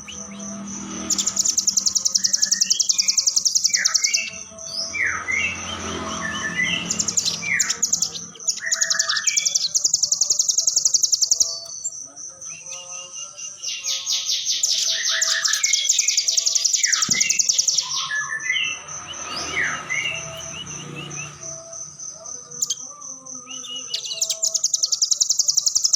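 Velvet-fronted nuthatch (rambatan) song: long, very rapid high trills lasting several seconds each, repeated four times, with shorter chirps and quick down-slurred notes between them. A steady high-pitched tone runs underneath.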